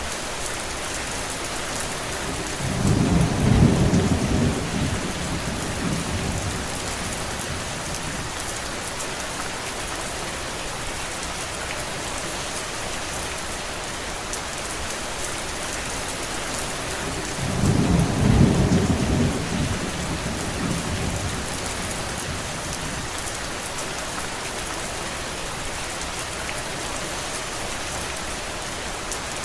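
Steady rain hissing, with two low rumbles of thunder, each building and fading over a few seconds: one about three seconds in and one about eighteen seconds in.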